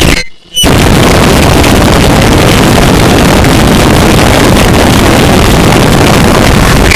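Harsh noise music: a dense, distorted wall of noise at full volume, cutting out briefly near the start and then running on unchanged.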